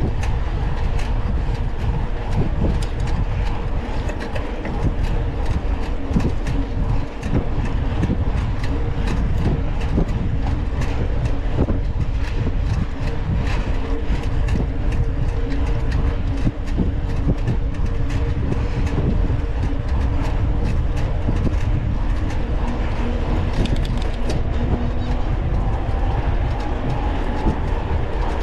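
Onboard mountain-bike riding noise: wind buffeting the camera microphone with a steady rumble, and constant clicking and rattling from the bike over rough ground. A steady hum runs underneath and rises slowly in pitch near the end.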